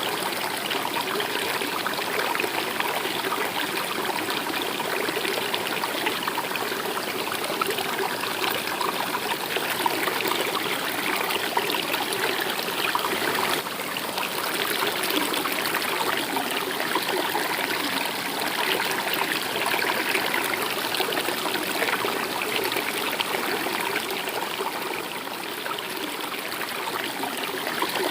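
A flowing stream, its water babbling and trickling steadily.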